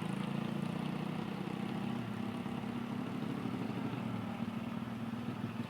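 A vehicle engine running steadily at low revs, a constant low drone.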